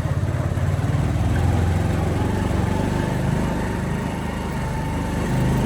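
Motorcycle engine running steadily while riding. A thin, steady high tone joins about a second and a half in and holds to the end.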